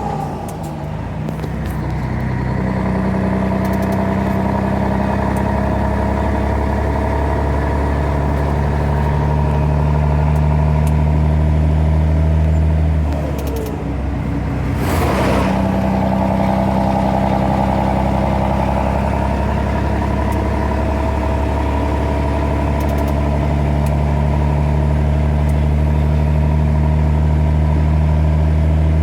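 Scania 113H truck's 11-litre six-cylinder diesel running steadily under load, its note breaking off and dipping briefly twice, just after the start and about halfway, as gears are changed on the 13-speed gearbox. A short hiss follows just after the second change.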